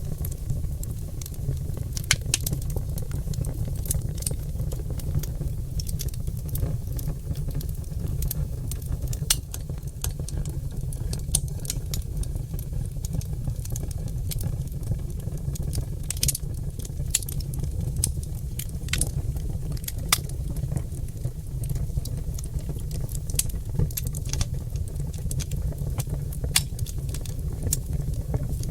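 Oak logs burning in a fireplace, crackling with frequent irregular sharp pops over a steady low rumble of the fire.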